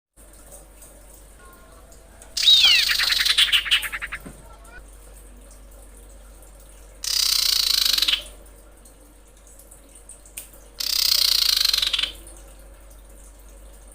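Female common iora (cipoh) calling, as played to lure males. About two seconds in comes a trilled call with down-slurred whistles, then two harsh rasping notes of about a second each.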